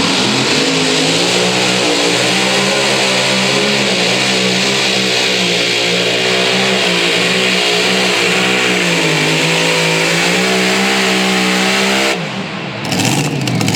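A pulling vehicle's engine running at high revs under load while pulling the weight-transfer sled down the track, its pitch wavering. Near the end the throttle comes off and the engine note drops sharply, then picks up again.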